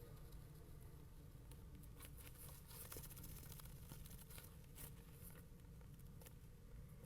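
Near silence inside a nest box: a steady low hum, with faint scratching and rustling clicks in the middle few seconds.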